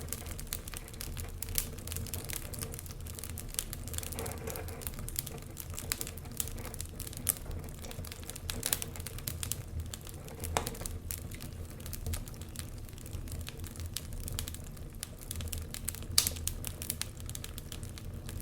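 Wood fire burning in a fireplace: a steady dense crackle of small snaps over a low rumble, with a few louder pops, the sharpest about 16 seconds in.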